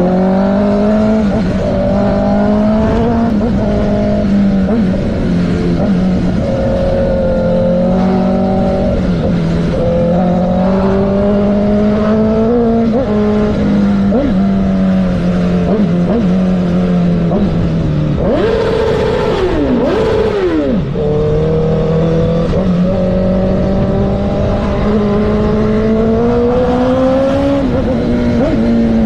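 Motorcycle engine running while riding, its pitch rising and falling gently with the throttle over a steady rushing noise. About two-thirds of the way through, the revs drop sharply and then climb again.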